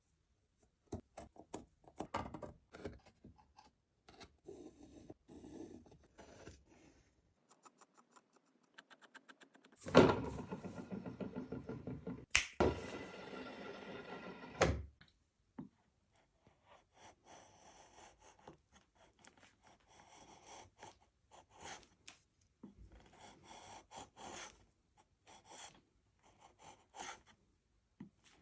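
Woodworking shop sounds: scattered knocks, clicks and scrapes of wood being handled and worked, with a louder stretch of quick repeated strokes lasting about five seconds around the middle.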